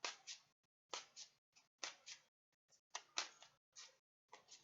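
A deck of tarot cards being hand-shuffled: a quick, irregular run of short papery snaps and slaps, several a second.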